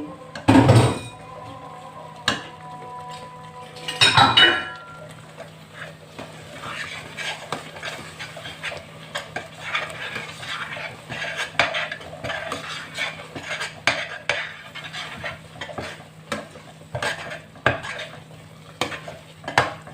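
Spoon stirring and scraping curry in a cooking pot. Two loud clanks against the pot, one about half a second in with a brief ring after it and another about four seconds in, then a long run of quick light scrapes and clinks.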